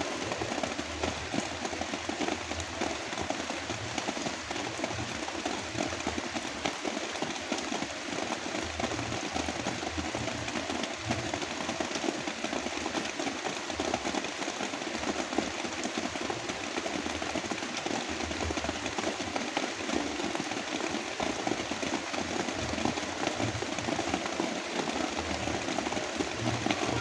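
Heavy rain falling steadily, mixed with a deep, even brown-noise rumble.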